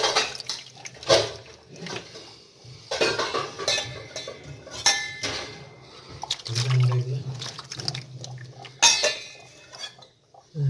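Dishes, containers and utensils clinking and clattering as they are handled, in a string of separate knocks and clinks. A low hum runs for a couple of seconds past the middle.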